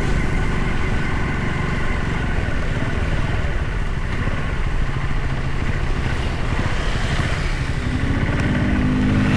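Train passing close by: a loud, steady, pulsing rumble with a few steady higher tones above it. Near the end a lower steady tone comes in.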